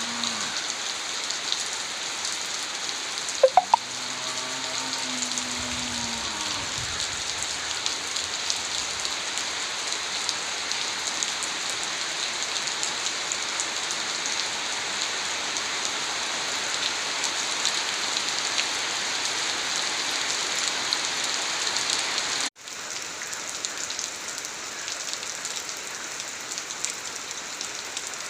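Steady rain falling with an even hiss. There are two sharp knocks about three and a half seconds in, and the rain drops a little in level after a cut near the end.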